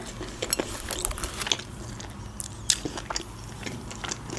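A person chewing a mouthful of shawarma close to the microphone: a string of short, irregular mouth clicks and crunches.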